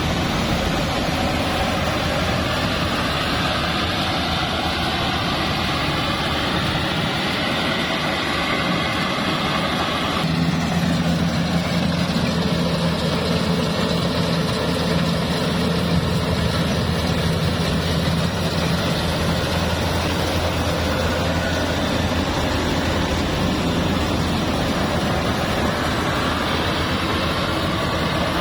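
Mobile rice thresher running steadily: its engine and threshing drum going as paddy is threshed. About ten seconds in the sound changes abruptly and a steady low hum comes up, with the machine's speed wavering slightly.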